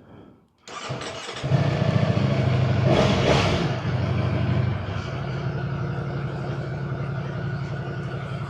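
Naked superbike's engine starting: it cranks under a second in and catches, runs louder with a brief surge of revs around three seconds, then settles to a steady idle about five seconds in.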